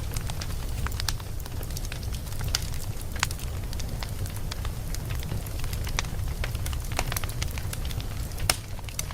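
Wood fire burning in a fireplace: logs crackling and popping in irregular sharp snaps over a steady low rumble of the flames, with one louder pop near the end.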